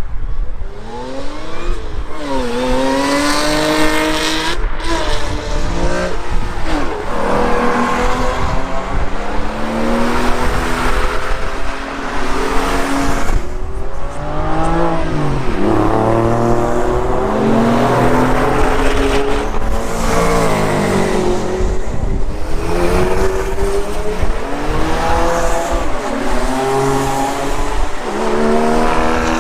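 Car engine being revved and driven hard, its pitch climbing and falling over and over, with several sharp drops between climbs.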